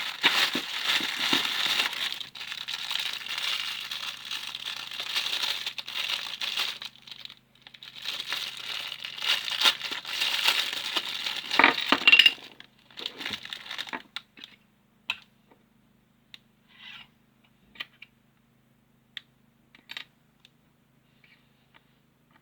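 Plastic packaging crinkling and tearing in two long spells, then scattered small clicks of plastic figure parts being handled.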